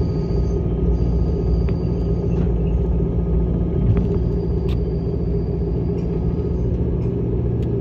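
Low, steady rumble heard inside the cabin of a Yakumo limited express electric train as it slows to a stop at a station platform, with a faint high tone that comes and goes.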